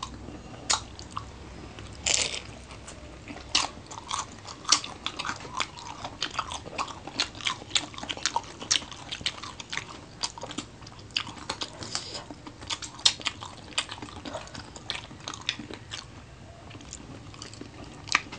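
Close-up eating sounds of crisp-fried adobo chicken feet and dynamite (cheese-stuffed chili spring rolls) being bitten and chewed: irregular crunches and mouth clicks, with a louder crunch about two seconds in.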